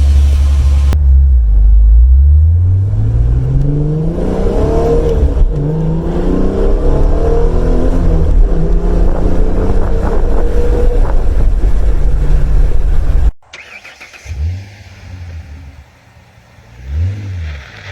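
Exhaust of a forced-induction 4.0 V6 Ford Mustang under hard acceleration, loud, with the engine pitch climbing steeply. About thirteen seconds in, it cuts off suddenly. Quieter, two short throttle blips follow, each rising and falling.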